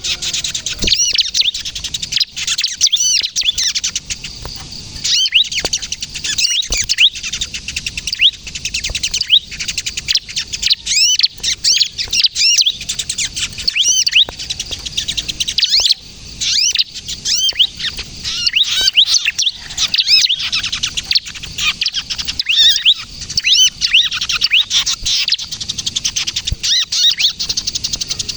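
Bar-winged prinia (ciblek) calling non-stop in a fast run of high, squeaky chirps and hooked notes: the agitated 'kejepit' call that bird keepers play as a lure and to get other ciblek to sing.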